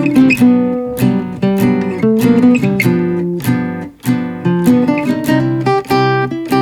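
Acoustic guitar music, plucked and strummed notes at a steady pace, with a brief pause about four seconds in.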